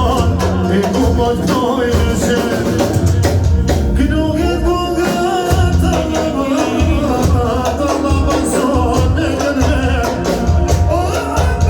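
Tallava music played live: an up-tempo dance tune with a strong, steady bass beat under a wavering, ornamented lead melody.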